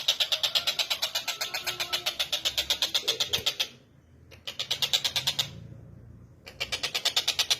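Tengkek buto bird calling in a rapid, even trill of about nine high notes a second. The trill breaks off about halfway through, with a short burst and a weaker stretch in the pause, then starts again strongly near the end.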